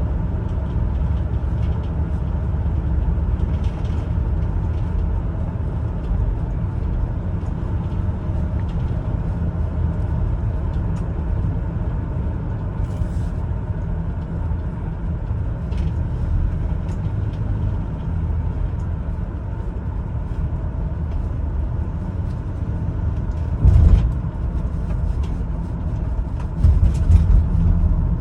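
2004 Chevrolet Venture minivan with its 3.4-litre V6 driving along: a steady low rumble of engine and road noise. There are two louder short thumps near the end.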